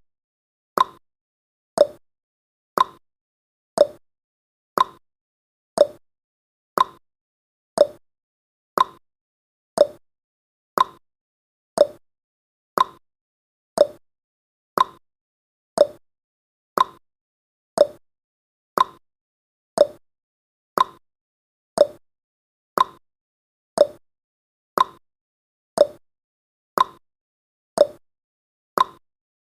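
Clock-tick sound effect of a countdown timer: a short, sharp tick once every second, alternating slightly higher and lower like a tick-tock.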